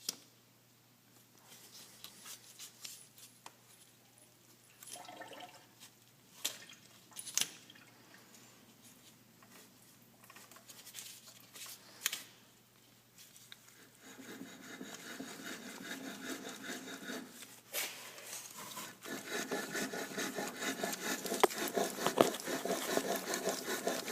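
Failing alternator on a BMW E38 750 making a rubbing, whining noise that grows louder in the last third, with scattered clicks before it.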